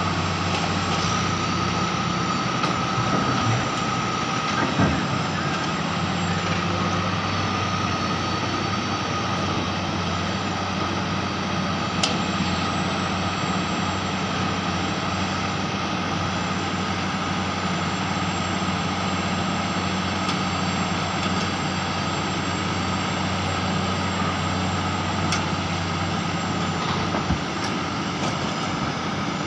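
Heavy diesel mining machinery running steadily: a constant engine drone, with a couple of brief knocks.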